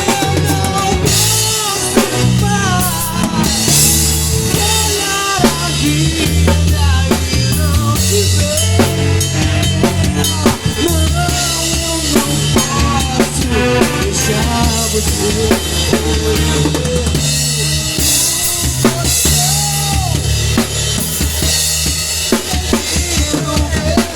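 Band music with a drum kit beating out a steady rhythm, a running bass line and a bending lead melody over them.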